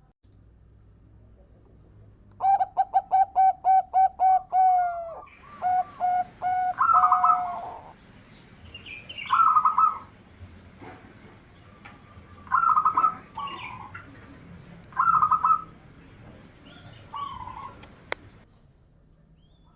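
Zebra dove (perkutut) cooing. A rapid run of about a dozen short staccato coos starts about two and a half seconds in, followed by several separate trilled coos a few seconds apart.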